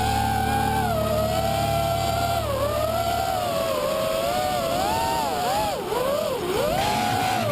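FPV racing quadcopter's brushless motors whining, the pitch rising and falling over and over as the throttle changes in flight, with several quick dips near the middle.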